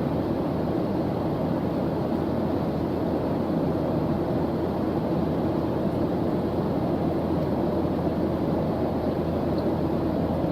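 Steady white-noise study track: an even, deep hiss that does not change, heavier in the low range than in the highs.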